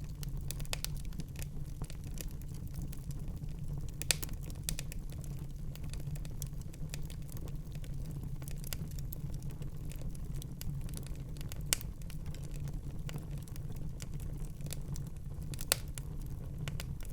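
Wood fire crackling in a fireplace: scattered sharp pops over a steady low rumble, with three louder snaps about four, twelve and sixteen seconds in.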